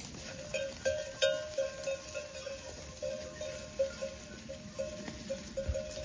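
Livestock bells on a flock of sheep clanking irregularly as the animals move, several ringing strikes a second.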